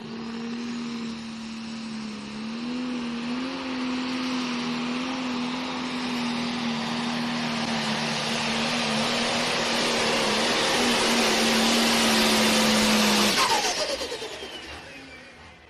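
Single-turbo diesel engine of a pro stock pulling tractor running at a steady speed, with a hissing turbo whine that grows louder. About 13 seconds in the engine is shut off, and the turbo whine falls steeply in pitch as it winds down.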